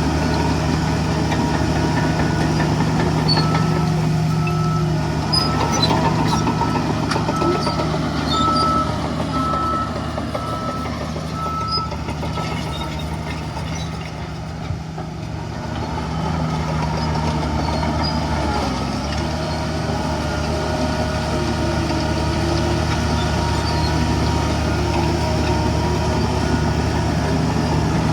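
Heavy diesel engines of earthmoving machinery running steadily, with a truck's reverse alarm beeping at an even pace for several seconds near the start. The engine note dips briefly about halfway through.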